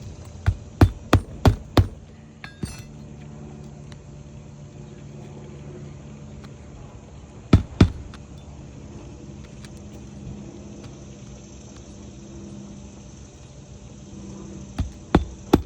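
Nails being driven into an asphalt three-tab shingle on a roof: a quick run of five sharp strikes, two more about halfway through, and another run near the end, over a low steady hum.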